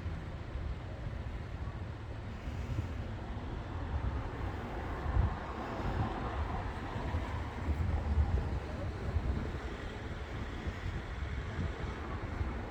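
Steady rumble of vehicles with wind buffeting the microphone, swelling for a few seconds in the middle.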